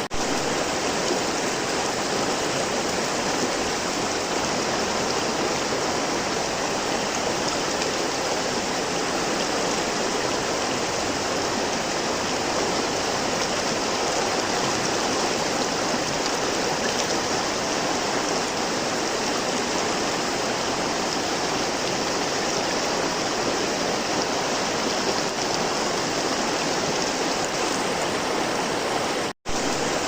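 River water flowing steadily, an even rushing sound with no change in strength; it drops out for an instant near the end.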